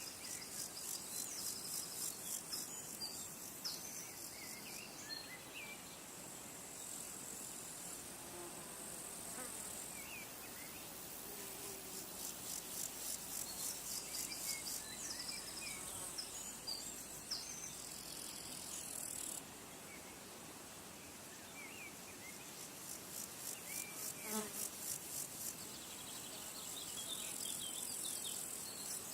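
Insects trilling high-pitched in rapid, even pulses, in stretches of several seconds that start and stop, with short faint bird chirps scattered through.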